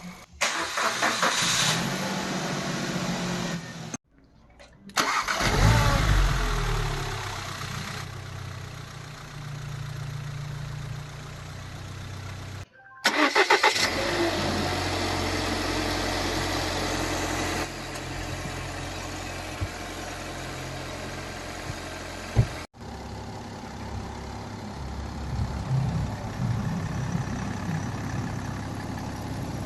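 Family car engine being started and idling, in several separate clips with abrupt cuts between them. Twice the starter cranks briefly, the engine catches with a surge in revs, then settles to a steady idle. It is offered as the sound of a normal engine with no abnormal noises.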